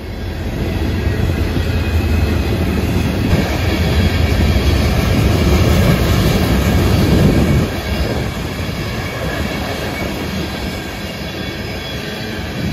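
Diesel-hauled freight train passing, a heavy low rumble that builds for several seconds. It drops off sharply about seven and a half seconds in, and the train runs on more quietly.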